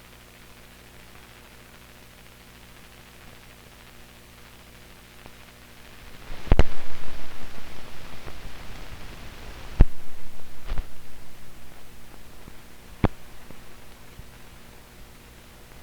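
Hiss and steady mains hum of an old film soundtrack, broken about halfway through by four sharp bangs, the first two the loudest, each trailing off over a couple of seconds.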